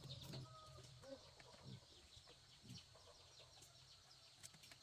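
Faint clucking of chickens, with scattered short high chirps over a low hum.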